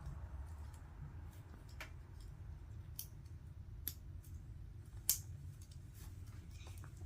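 Plastic Lego pieces being handled and pressed together, giving a few scattered sharp clicks, the loudest about five seconds in, over a low steady hum.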